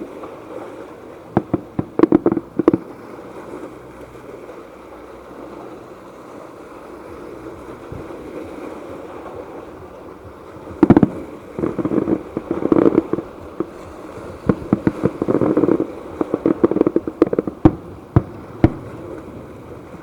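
Fireworks going off: clusters of sharp bangs and crackles about a second in, then a longer run of them from about halfway through, over a steady background hiss.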